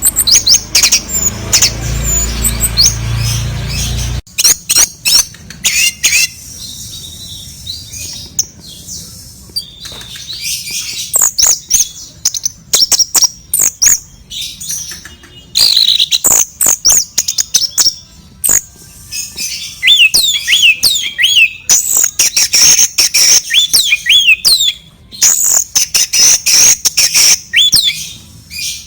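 Sooty-headed bulbul calling over and over, short chirps and squawks that sweep up and down in pitch, mixed with many sharp clicks and taps. A low rumble underneath cuts off suddenly about four seconds in.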